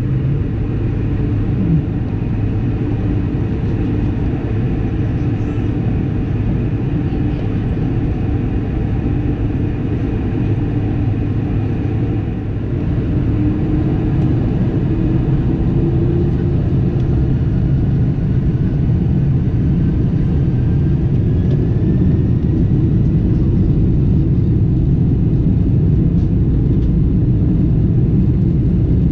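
Boeing 747-400 cabin noise: a loud, steady, deep rumble of the jet engines and airframe. It grows louder about halfway through, with a faint whine rising in pitch as the engines power up.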